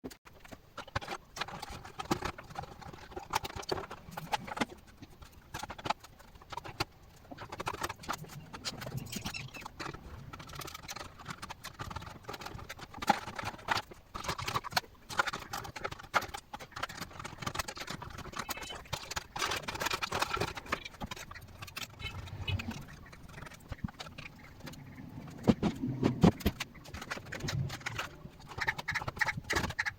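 Irregular clicks, knocks and light clatter of desktop PC parts and screws being handled, fitted and removed.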